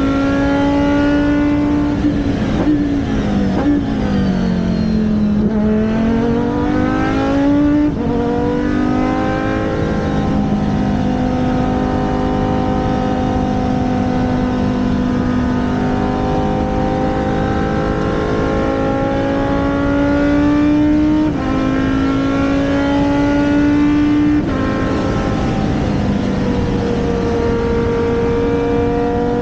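Race car engine running at high revs. Its pitch drops about two seconds in and climbs back by about eight seconds, then holds fairly steady, with sudden pitch steps at the gear changes.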